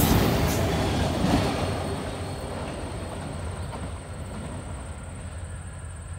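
Freight train's autorack cars rolling past on the rails, wheels clattering with a few knocks early on, the noise fading steadily as the last cars move away.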